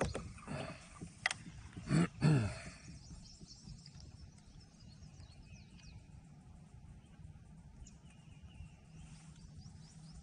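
A sharp click, then two loud bird calls about two seconds in, followed by quiet open-air ambience with faint bird chirps.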